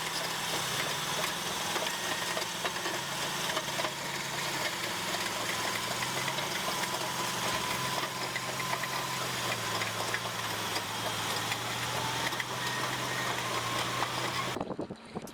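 Caterpillar D11 bulldozer's diesel engine running steadily at work. The sound drops away abruptly less than a second before the end.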